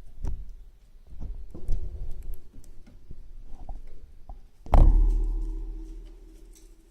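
Chinese dwarf hamsters scrabbling and nibbling, making small clicks and light knocks. About five seconds in there is one louder knock that rings on and fades over about two seconds.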